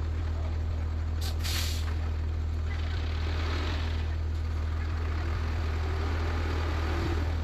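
Heavy vehicle engine running with a steady low drone, with a short sharp hiss of air about a second in, like an air brake releasing.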